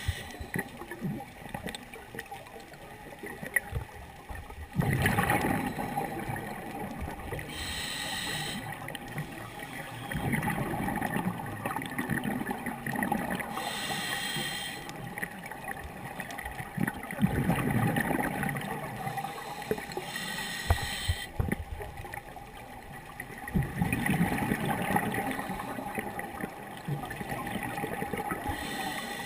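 Scuba diver breathing underwater through a regulator: a short hiss on each inhale, then a longer gurgling rush of exhaled bubbles, repeating about every six seconds.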